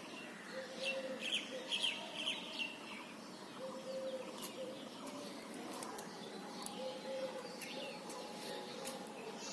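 Wild birds chirping: a run of quick, high chirps in the first three seconds, then scattered chirps, with a lower call repeating now and then.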